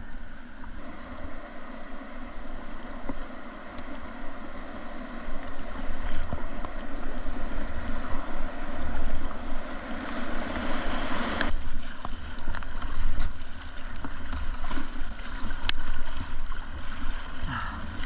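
Whitewater rushing around a kayak on a river running at about 1500 CFS, with low buffeting on the microphone. The rush builds for several seconds and then drops off suddenly about two-thirds of the way through.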